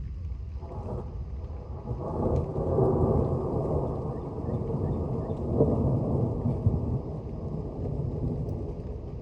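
Rolling thunder: a deep rumble swells about two seconds in, peaks twice, and slowly dies down near the end, with a faint hiss of rain underneath.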